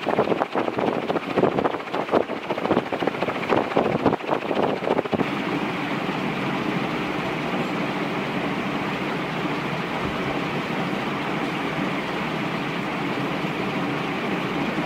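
Canarm CP56 ceiling fan with three curved metal blades running on high speed, its air rushing: for about the first five seconds the draught gusts and buffets the microphone, then it settles into a steady whoosh.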